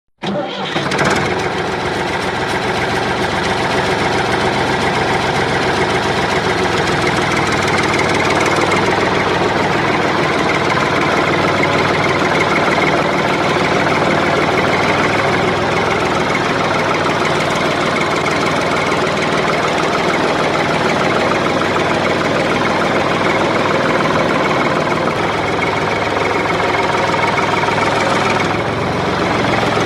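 An engine running steadily at idle, starting abruptly at the outset and holding an even pitch throughout.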